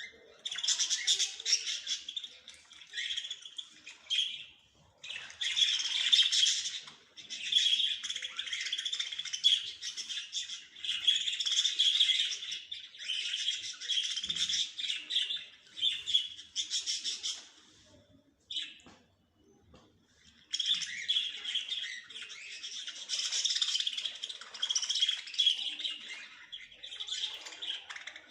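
Small songbirds singing and chirping in long, rapid trilling phrases, broken by short pauses about four seconds in and again from about 18 to 20 seconds in.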